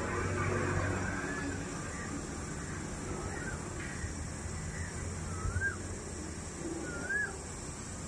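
A bird calling with short whistled notes that rise and fall, repeated every second or two, over a steady outdoor background hiss.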